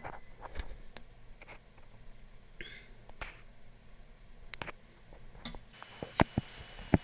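Metal spoon clicking and tapping against a metal tea kettle in scattered single strokes about a second apart, with a short squeak about a third of the way in, while rust and limescale are scraped off.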